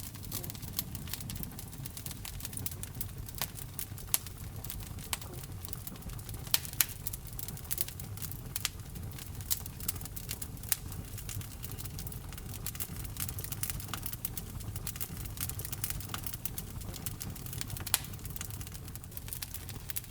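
Wood fire burning in a fireplace: a steady low rumble of flames with irregular crackles and pops, a few sharp louder snaps among them.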